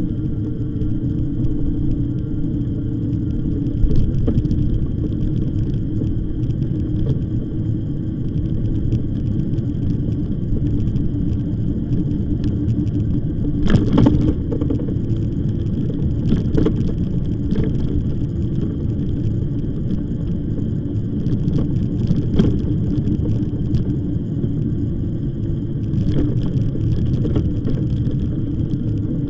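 E-bike riding along a rough path: a steady low rumble of tyres and wind, broken by a handful of short, sharp rattles as the bike jolts over bumps.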